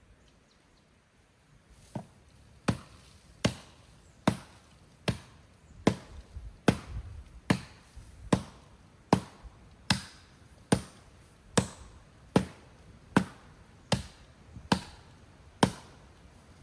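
Wood being chopped with an axe blade in steady, evenly spaced strikes, about one every 0.8 seconds, about eighteen in all, starting about two seconds in.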